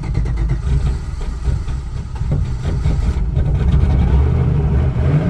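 Turbocharged LS V8 engine in a drift car running at idle just after starting, a little louder about four seconds in.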